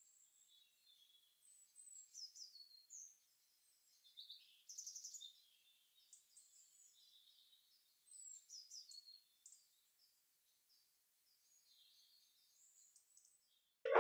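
Faint birdsong: groups of high chirps and short trills with pauses between them.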